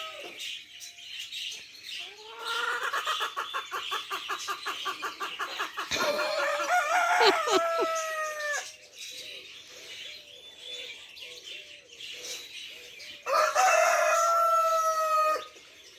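A rooster crowing: long, loud crows, one running from about two seconds in to nearly nine seconds in and another near the end, with soft, small repeated calls in between.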